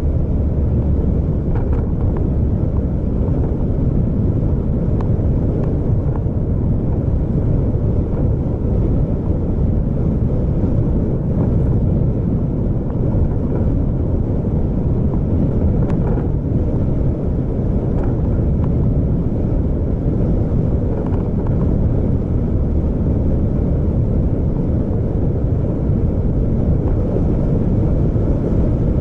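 Road vehicle driving, a steady low rumble of engine and road noise that does not change.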